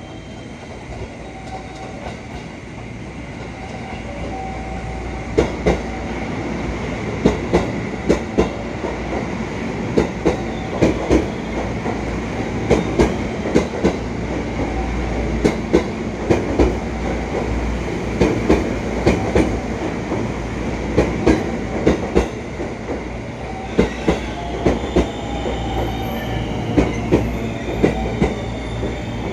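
A train passing through a station. It rumbles louder over the first few seconds, then its wheels clack over rail joints in repeated sharp double beats for over twenty seconds.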